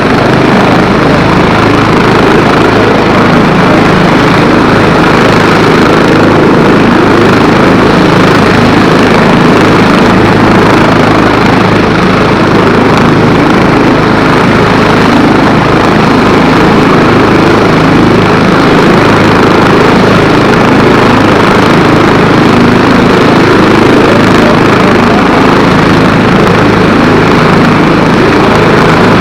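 Airbus H145 helicopter running, its turbines and rotor making a loud, even drone with a steady low hum.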